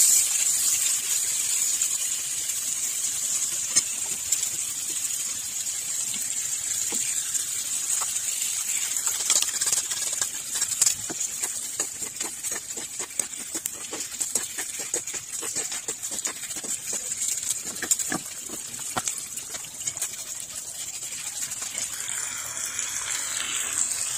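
Chicken and eggplant sizzling in a hot frying pan, a steady hiss, with frequent quick clicks and taps of wooden chopsticks stirring against the pan, busiest in the middle stretch. The audio is played back at double speed.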